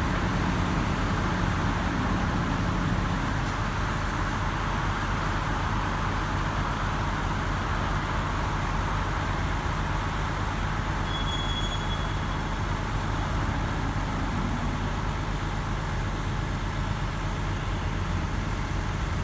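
Heavy diesel engines of excavators and loaders running steadily as they work. A brief high-pitched tone sounds about halfway through.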